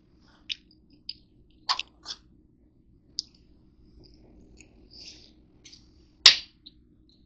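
Wet mouth clicks and smacks of someone chewing food close to the microphone, as short irregular snaps with the sharpest one about six seconds in.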